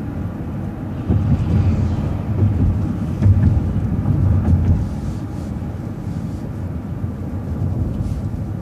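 Transit bus running, a steady low rumble of engine and road noise heard from inside. It grows louder from about a second in for around four seconds, then settles back.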